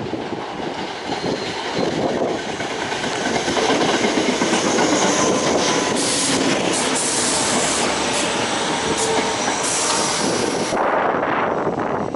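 A train running by on its rails, a loud, steady rush of wheel and track noise that grows louder a few seconds in. A harsh high hiss rides on top through the middle stretch, then fades near the end.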